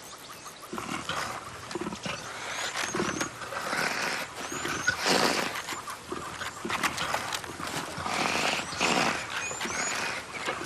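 Lions growling and snarling over a carcass while feeding, a run of rough growls one after another, the loudest around the middle. Short high bird chirps repeat above them.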